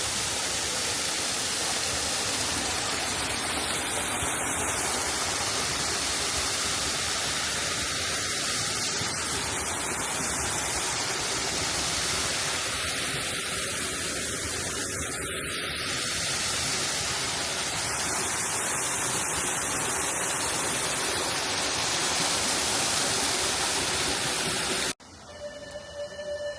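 A steady, even rushing noise. About 25 s in it cuts off suddenly to a much quieter hiss.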